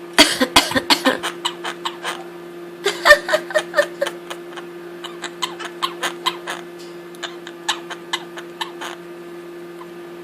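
Quaker parrot making rapid runs of short clicking, chuckling chatter in several spurts, the densest in the first second.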